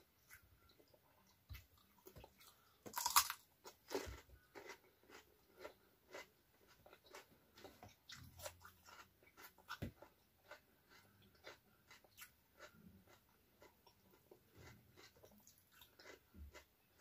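Chewing and crunching of a meal of rice, fried tofu and raw vegetables, with many small mouth clicks throughout and one louder crunch about three seconds in.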